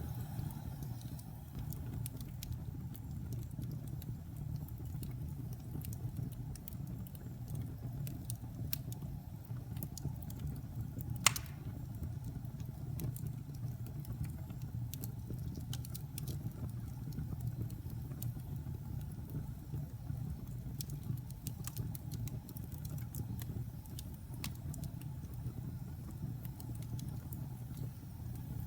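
Wood fire burning in a fireplace: a steady low rumble with scattered small crackles and one loud pop about eleven seconds in.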